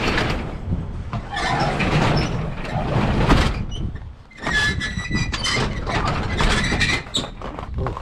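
Metal snow shovel scraping and crunching through ice-crusted snow in several long strokes, with a metallic ring in the later strokes.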